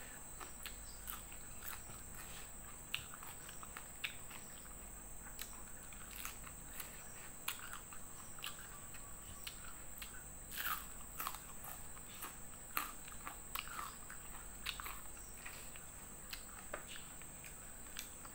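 Close-up eating sounds: chewing with irregular small mouth clicks and occasional crunches as food is bitten. A steady high insect chirr runs underneath.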